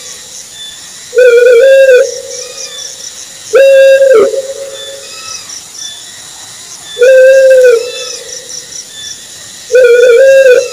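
Owl hooting: four drawn-out hoots, each under a second long and held on one steady pitch, spaced a few seconds apart.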